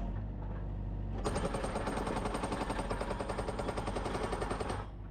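Excavator-mounted hydraulic post driver hammering a fence post in a rapid, even run of blows over a steady excavator engine drone. The hammering starts about a second in and stops just before the end.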